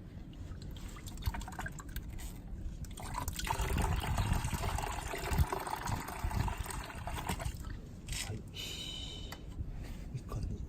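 Liquid pouring and trickling from the motorcycle engine for about four seconds, starting a few seconds in and stopping fairly suddenly, with faint drips and small handling sounds around it.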